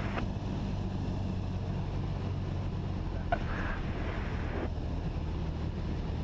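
Cessna 172 SP's four-cylinder Lycoming engine and propeller droning steadily inside the cabin in flight. About three seconds in a click and a brief hiss, cut off sharply after a second and a half, sound over the drone.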